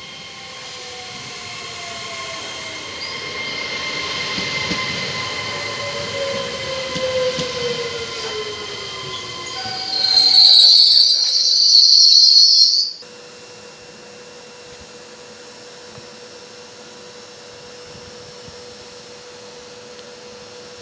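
Trenitalia ETR 103 Coradia Pop electric train running into the platform and braking, its motor whine falling in pitch as it slows. About ten seconds in comes a loud, high brake squeal lasting some three seconds, which stops abruptly as the train halts. The train then stands with a steady hum.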